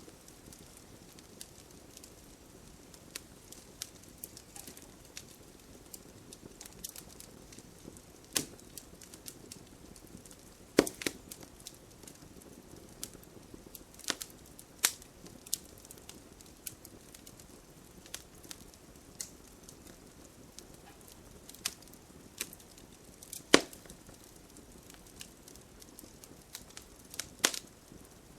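Campfire burning, with a soft steady hiss and irregular sharp crackles and pops of the burning wood, a few of them much louder than the rest.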